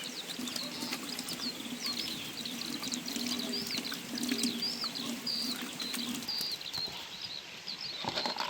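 Small birds chirping, a steady run of short, high, quick calls, with a faint low hum underneath that fades out about six seconds in.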